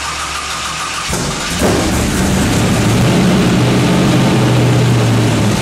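Twin-turbo Firebird engine being cranked on its first start, catching about a second and a half in and then running at a steady, loud idle.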